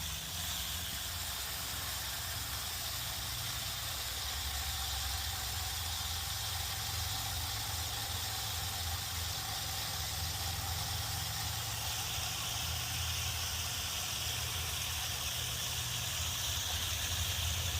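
Garden hose running fresh water into a bird bath: a steady hiss of flowing water with a low rumble underneath.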